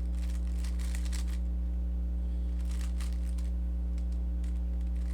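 Rubik's cube being turned quickly through an algorithm, its layers clicking and clacking in three short runs of turns. A steady low electrical hum sits underneath throughout.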